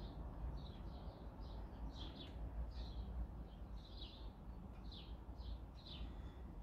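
A bird chirping over and over in short, high calls, about two or three a second, over a faint steady low hum.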